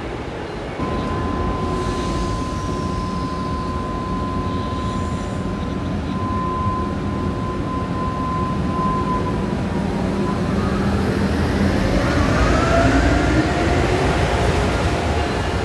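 Passenger train pulling out: rumble with a steady high whine, then several tones rising in pitch together from about ten seconds in as it speeds up.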